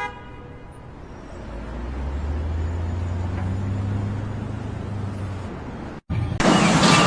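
A motor running with a low hum that grows louder and then eases off. It cuts off about six seconds in, and a much louder, harsh mechanical noise starts.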